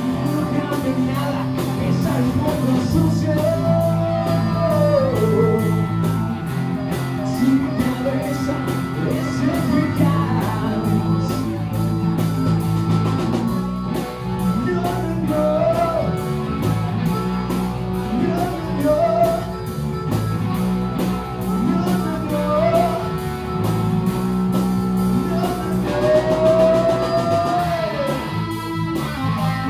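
Live rock band playing: bass, drum kit with cymbals ticking steadily, and guitar, with a bending lead line of singing or harmonica on top in short phrases.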